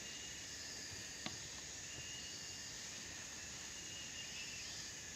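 Steady high insect buzz of forest ambience, with a thin high note that comes and goes, and a single small click a little over a second in.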